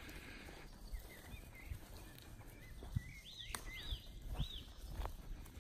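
Songbird singing: short arched whistled notes repeated three times about half a second apart, with other twittering notes. Under it runs the rustle of footsteps in grass, with a few sharp knocks.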